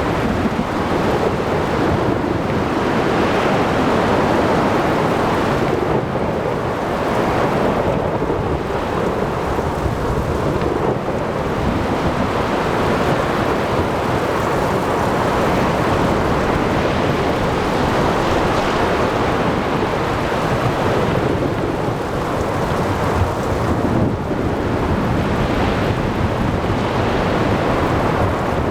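Ocean thunderstorm ambience: steady heavy rain and wind over surf, with thunder rumbling, swelling and easing in slow waves.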